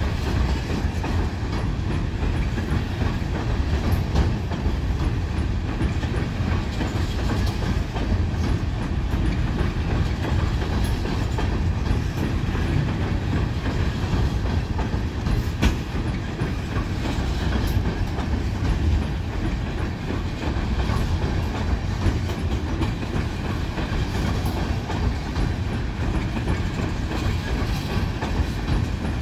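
Tank cars of a Union Pacific oil train rolling slowly in reverse across a steel girder bridge: a steady low rumble with wheels clacking over rail joints now and then, one sharper clack about halfway through.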